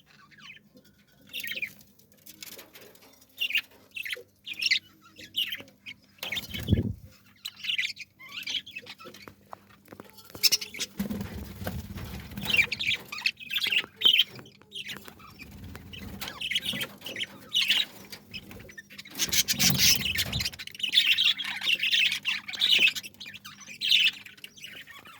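Small birds chirping and squawking in quick, irregular short calls, with a few low rustles or flutters in between.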